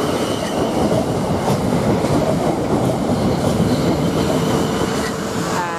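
South Western Railway Class 450 Desiro electric multiple unit running along the platform as it arrives: a steady, loud wheel-and-rail rumble with light clicks as the wheels cross rail joints, and a faint steady high whine over it.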